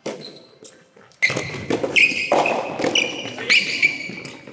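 Soft tennis rally: the rubber ball is struck by rackets and bounces on the indoor court floor in sharp hits, with high squeaks from about two seconds in.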